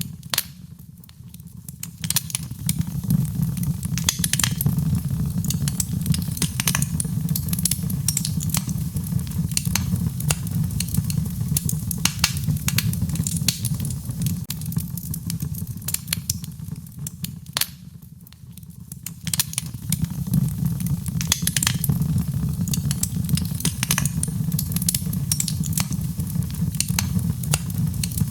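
Wood fire crackling with frequent sharp pops over a steady low rumble, mixed with rain. The sound dips briefly twice, once near the start and once about two-thirds of the way through.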